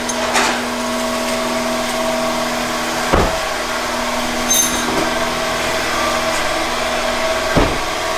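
Honda B-series Type R four-cylinder engine idling steadily, with two short knocks about three seconds in and near the end.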